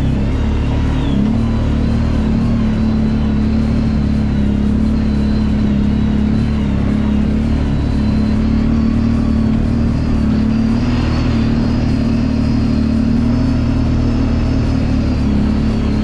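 Kawasaki Brute Force 750 ATV's V-twin engine running steadily under way, its pitch rising and dipping a little, with a faint high whine above the engine.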